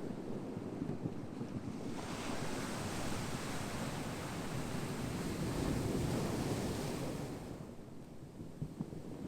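Ocean surf: a wave breaks and washes in as a swell of hissing surf about two seconds in, then draws back and fades near the end, over the steady low rumble of the sea.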